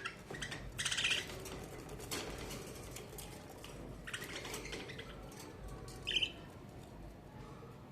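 Budgerigars chirping in short, scattered bursts, the loudest about a second in.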